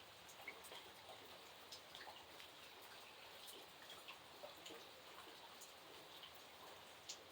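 Faint steady rain with individual raindrops ticking irregularly and sharply on top of the hiss.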